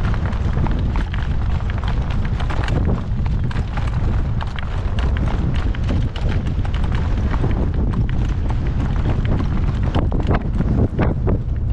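Gale-force wind buffeting the microphone in a constant heavy rumble, with scattered short knocks and clatters through it.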